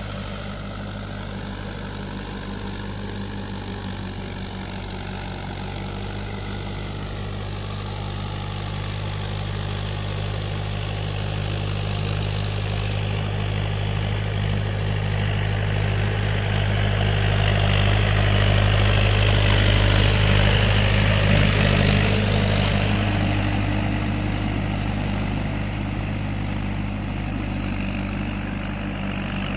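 Mahindra tractor's diesel engine running steadily, growing louder to a peak about two-thirds of the way through and then easing off.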